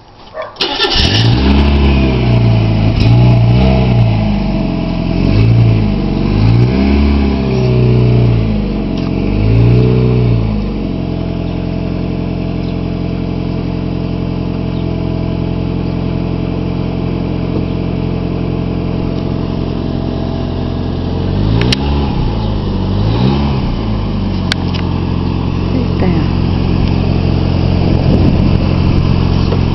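1991 Mazda Miata's 1.6-litre 16-valve four-cylinder engine coming in suddenly about half a second in and being revved up and down several times. It then settles to a steady idle, is blipped twice more about two-thirds of the way through, and goes back to idling.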